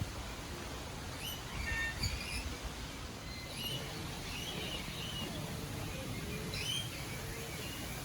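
Small birds chirping: many short, high calls scattered throughout, some rising and some falling, over a steady low background noise.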